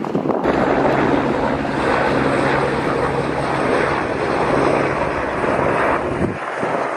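Aircraft engine running with a steady drone under a loud rush of noise, changing abruptly about six seconds in.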